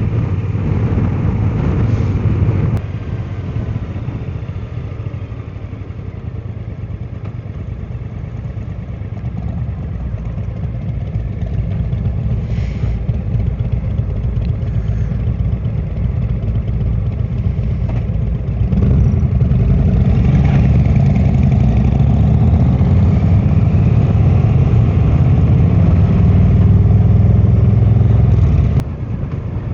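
A 2016 Triumph America motorcycle's parallel-twin engine running as the bike is ridden. The engine gets louder about two-thirds of the way through and drops off suddenly just before the end.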